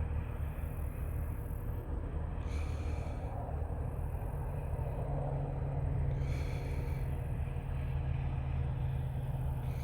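Farm vehicle engine running steadily with a low drone. About four seconds in, a second, slightly higher tone comes in and holds.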